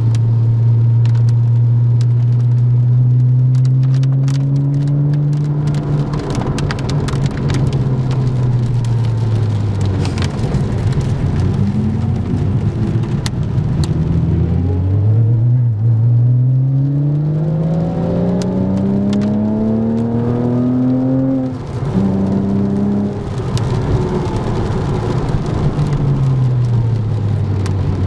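A car engine heard from inside the cabin while driving in rain. The engine note creeps up, eases off about nine seconds in, then climbs steeply under acceleration from about fourteen seconds and drops sharply at about twenty-one seconds. Behind it there is a steady wet-road hiss and rain ticking on the car.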